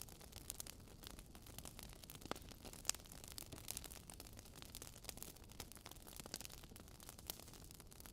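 Wood fire crackling in a fireplace: burning logs giving frequent small irregular pops and snaps over a low steady hiss, with one sharper pop about three seconds in.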